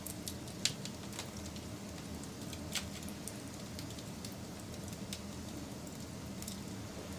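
Wood campfire burning with a steady low rush of flames and irregular sharp crackles and pops, the loudest about two-thirds of a second in and again near three seconds.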